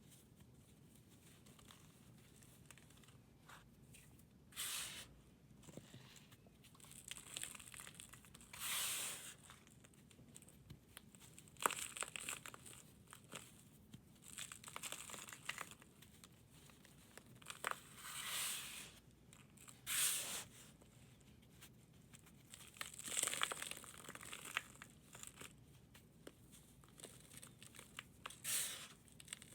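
A brittle, crumbly material being crunched and crumbled, in about nine separate crackling bursts with short pauses between them and a few sharp snaps.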